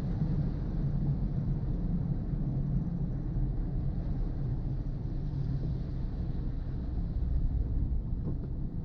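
Car driving in the rain: a steady low rumble of engine and tyres on the wet road.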